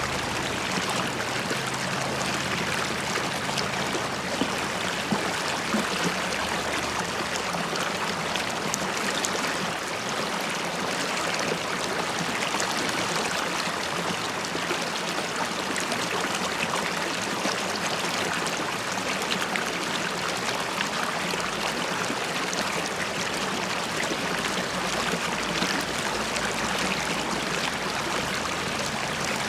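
River water flowing and bubbling over stones, a steady gurgling and trickling.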